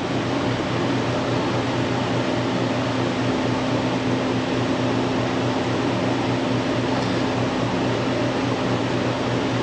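Steady mechanical hum with low droning tones, like a running fan, unchanging throughout.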